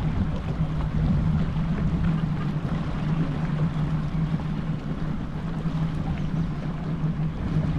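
150 hp Yamaha outboard motor running steadily as the boat moves, a constant hum with wind and water noise over it.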